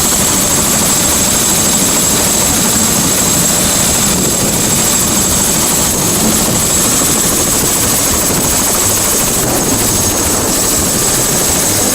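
Tour helicopter running, a loud steady roar of engine and rotor with a steady high-pitched whine on top.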